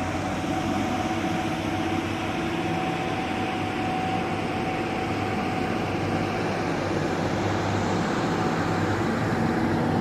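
Motorcycle engine running steadily while riding, mixed with the rush of wind and road noise.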